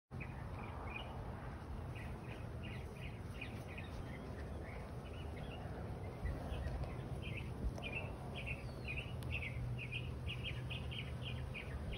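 A songbird singing in quick runs of short, repeated chirps, a little louder and busier from about halfway through, over a steady low background rumble.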